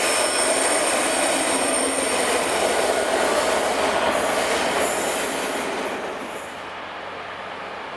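A train running through a railway station, with a loud rumble and high-pitched wheel squeal, fading about six seconds in as it moves away.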